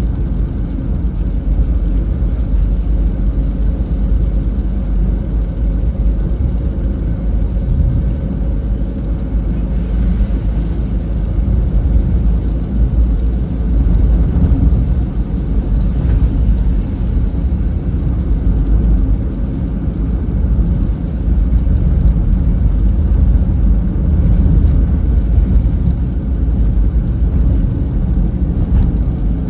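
A car driving on a rain-wet road: a steady, loud, low rumble of road and engine noise, with only a faint hiss above it.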